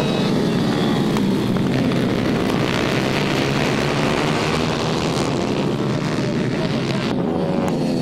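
A pack of about fifteen small-engine racing motorcycles pulling away together from a race start, their many engines revving at once in a loud, steady din.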